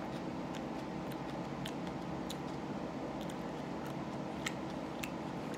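Person chewing a raw jalapeño pepper: a scattering of small, sharp crunches and mouth clicks, the loudest about four and a half seconds in, over a steady background hum.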